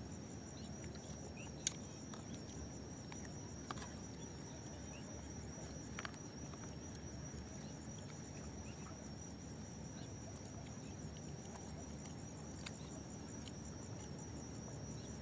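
Faint nighttime ambience in open country: a steady high insect trill over low background noise, with a few short, faint bird chirps and clicks scattered through it.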